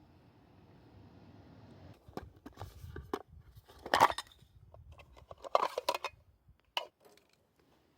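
Objects being handled: a string of clicks and knocks, with two louder clattering bursts about four and five and a half seconds in.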